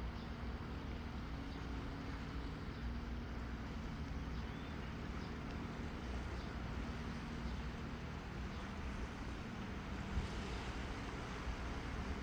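Steady low engine drone over a constant wash of wind and surf at the sea shore.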